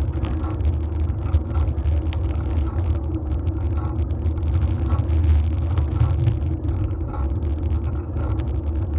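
Steady low rumble of a fixed-gear bike rolling along pavement, the tyre and road vibration picked up through a metal handlebar phone mount.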